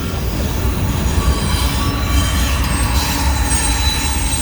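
Freight train rolling past, its wheels squealing in thin, steady high tones over a continuous low rumble.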